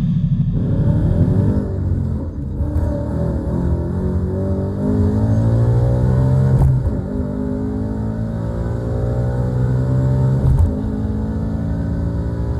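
Ford Mustang's Coyote 5.0 V8 accelerating hard, its pitch climbing steadily and dropping sharply at upshifts about 6.5 and 10.5 seconds in.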